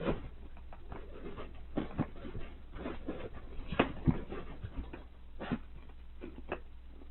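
A dog's small noises and movements, with a scatter of short, sharp knocks and clicks, loudest about four seconds in.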